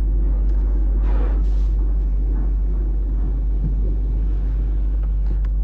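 Steady low rumble inside a car's cabin as it sits in an automatic car wash, the car's engine running at idle under the hum of the wash.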